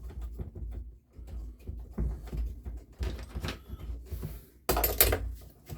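Handling noises on the workbench: irregular knocks and clicks of tools and engine parts being moved and fitted, with a louder clatter near the end.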